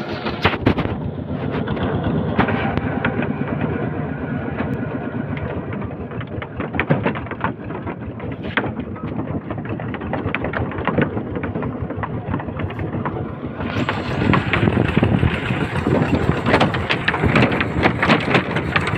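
Small tractor engine running, a busy mechanical noise that gets louder about two-thirds of the way in.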